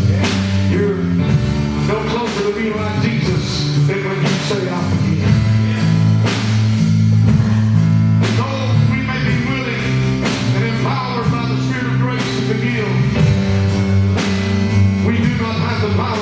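Live gospel worship band playing: drum kit, bass guitar holding low notes and piano, with a voice singing over them.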